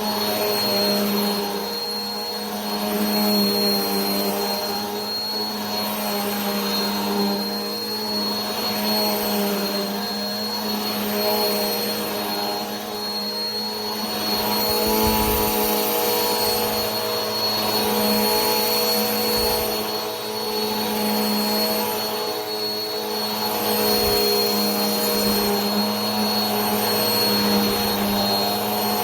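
Vacuum cleaner running steadily: a motor hum with a high, steady whine over a rush of air, swelling slightly about every two seconds.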